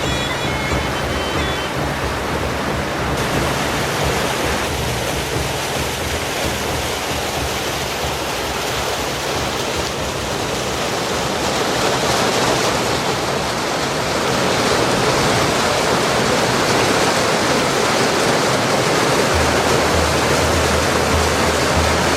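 Steady rush of flowing water, a stream or waterfall, growing louder about halfway through.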